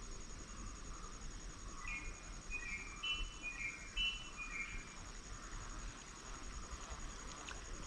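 A bird calling a quick run of short chirps from about two seconds in to about five seconds in, over a steady high-pitched insect trill and faint outdoor hiss.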